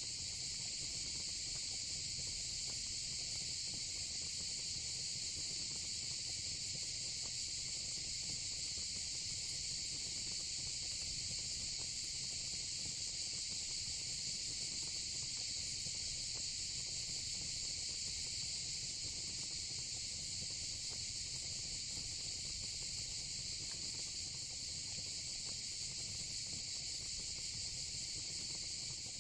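Steady, high-pitched chorus of crickets and cicadas, with a few faint crackles from a fire pit.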